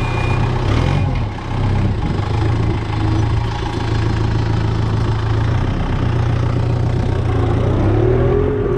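Kubota M6040 tractor's diesel engine running steadily while plowing snow with the loader bucket, its pitch shifting briefly about a second in and again near the end.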